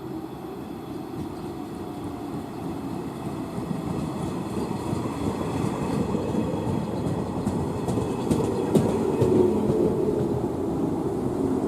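Train running on rails, a steady rumble that grows steadily louder, with a few sharp clicks about eight seconds in.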